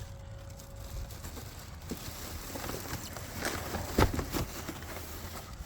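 Handling noises as a 12 hp outboard motor is lifted out of its shipping box: light scraping and rustling of packing, with a few sharp knocks, the loudest about four seconds in.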